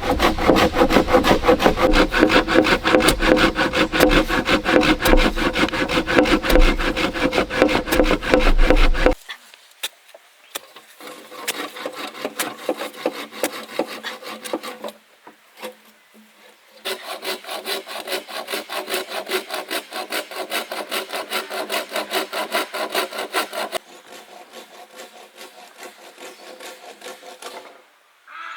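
Hand saw cutting through a bamboo pole in fast, even back-and-forth strokes, in several runs with short pauses between them.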